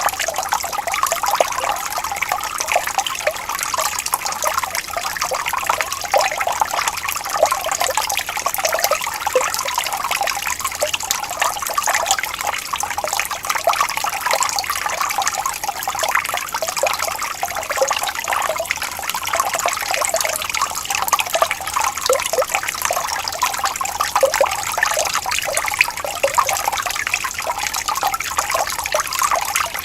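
Water flowing and trickling gently in a small stream, a steady bubbling splash with no pauses.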